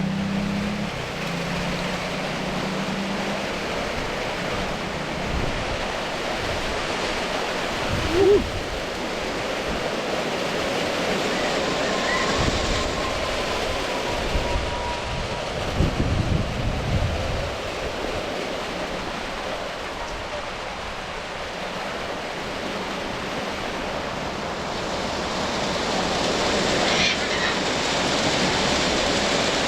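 Heavy tropical rain pouring down steadily, with a few brief louder low knocks about eight seconds in and again about sixteen seconds in.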